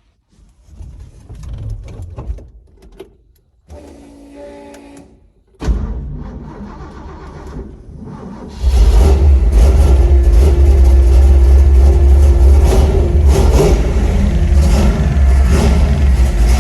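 Cold start of a 1965 Ford's FE 390 big-block V8 after sitting for a while: the engine is cranked over, then catches and runs, loud and steady with a deep rumble from about eight seconds in.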